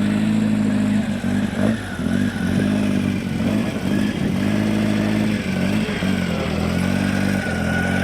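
Classic car engine running steadily at low revs, with brief dips in engine speed every second or two.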